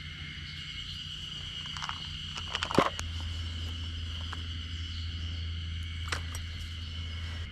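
Cicadas droning steadily in a continuous high chorus, with a steady low hum beneath. A few sharp clicks and knocks cut in, the loudest just before three seconds in and another about six seconds in.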